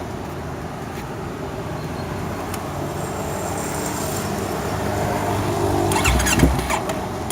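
Yamaha R25's parallel-twin engine idling through an R9 GP stainless full-system exhaust with no dB killer fitted. The note rises in the last few seconds, with quick throttle blips near the end.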